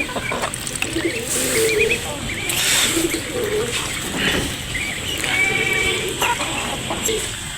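Flock of domestic birds calling while they feed on grain: pigeons cooing, with short chirps from other birds.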